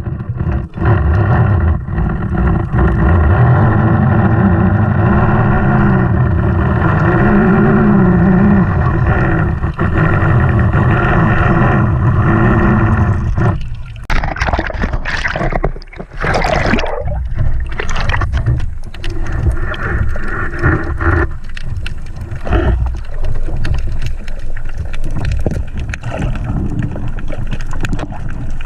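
Boat engine running steadily. From about halfway through it is broken up by splashing and knocks of water and handling.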